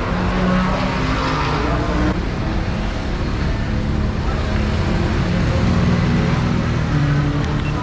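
Race car engines running in the paddock, a low, steady engine sound whose pitch drifts slightly up and down.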